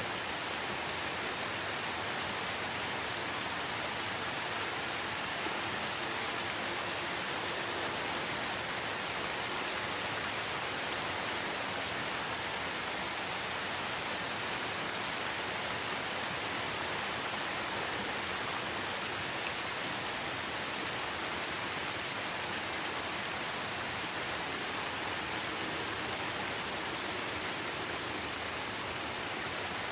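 Steady rainfall: an even hiss of rain pattering on foliage and surfaces, unchanging throughout.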